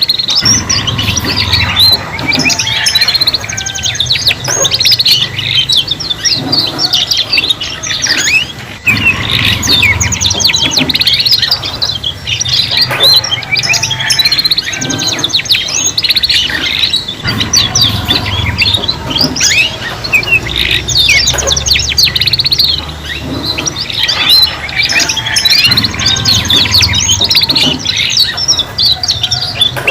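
Several young domestic canaries singing together: a continuous overlapping mix of fast, high trills and chirps.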